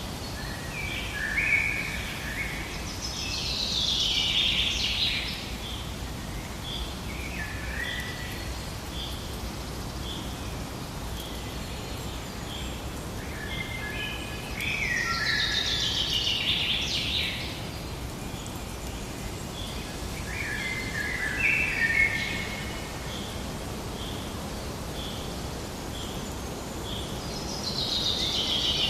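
Forest birdsong: birds singing bursts of song every few seconds, with a steady series of short high piping notes at about one per second in between, over a low steady background hiss.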